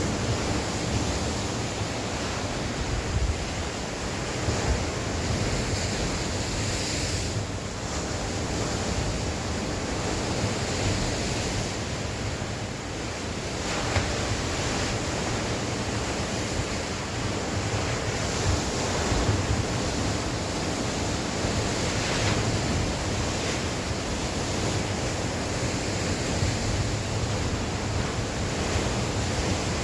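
Sea waves breaking and washing on the shore in a continuous wash that swells and eases, with gusty wind buffeting the microphone as a low rumble.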